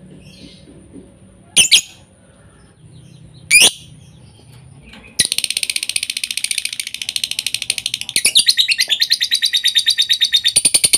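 Lovebird song: two sharp, loud chirps, then about five seconds in a long, unbroken, fast rattling trill of many short high notes. It is the drawn-out 'konslet' trill of a fighter lovebird.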